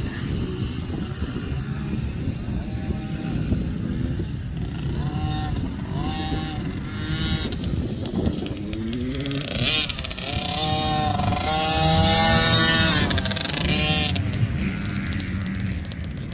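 Small two-stroke KTM 50 motocross bike engine revving up and down over and over, its pitch rising and falling, loudest and highest about ten to fourteen seconds in. The silencer needs repacking, which gives it a harsh, horrible sound.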